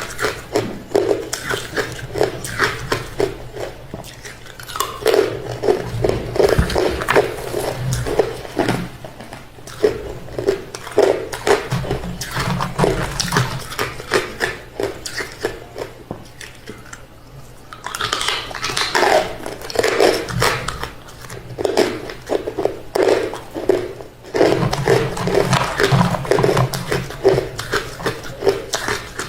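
Close-up mouth sounds of a person biting and chewing hard refrozen crushed ice: a steady run of sharp crunches, with a couple of short lulls between mouthfuls.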